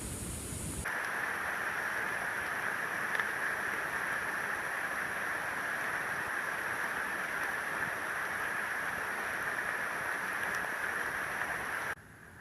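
Steady rainforest ambience: an even hiss, strongest in the upper-middle range, with faint high steady tones above it. It starts abruptly about a second in and cuts off just before the end.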